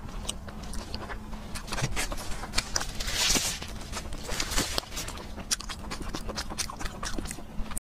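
Close-miked chewing with wet mouth clicks and lip-smacks, and a longer hissing slurp about three seconds in. The sound cuts off briefly just before the end.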